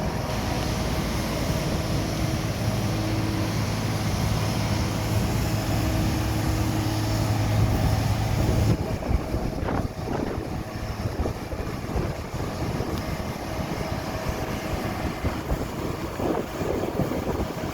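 Excavator's diesel engine running steadily under load; about nine seconds in the engine note drops off, and irregular knocks and scraping follow.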